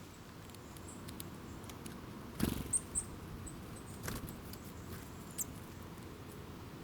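Small wild birds giving a handful of short, very high, thin calls, scattered over a steady background hiss. A couple of brief soft knocks or rustles come with them, the loudest about a third of the way in.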